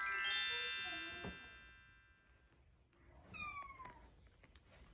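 A bright chime-like musical flourish of many sustained ringing tones that rings out and fades over the first two seconds or so, with faint kitten mews beneath it and a short falling mew about three and a half seconds in.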